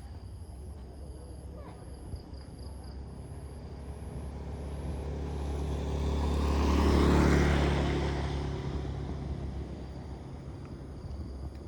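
A motor vehicle passes by: its engine hum and noise build slowly to a peak about seven seconds in, then fade away.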